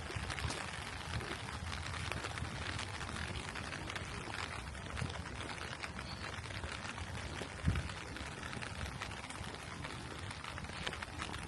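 Steady rain falling, a dense patter of many small drops with a low rumble underneath, and a single dull thump about two-thirds of the way through.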